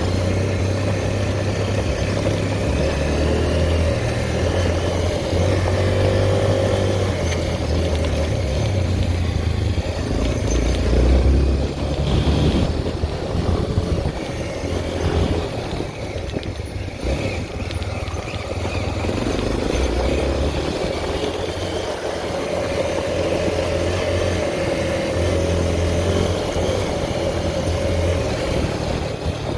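Honda XR 250 Tornado's single-cylinder four-stroke engine running under way, its note shifting up and down, loudest about eleven seconds in.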